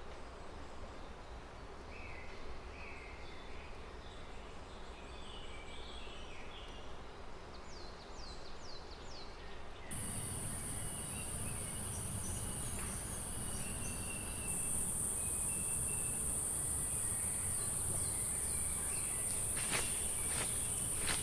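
Forest ambience: birds chirping over a low steady background hiss, then about halfway through a steady high-pitched insect drone, like crickets or cicadas, starts abruptly and grows louder a few seconds later. A few sharp clicks come near the end.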